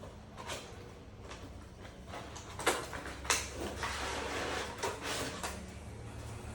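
Coffee tools and their packaging being handled: about half a dozen light knocks and clicks, the sharpest near the middle, with a stretch of rustling between them.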